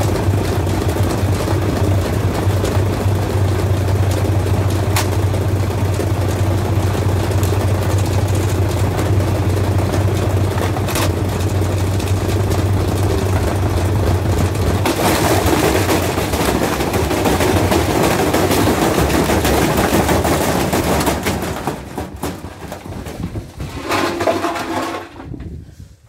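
Washing machine running hard, with a steady low hum under the noise at first, then a harsher, rougher sound for several seconds. It then slows, its pitch falling, and stops just before the end.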